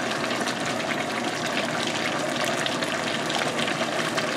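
Squirrel meat frying in a pan: a steady sizzle full of fine, irregular crackles.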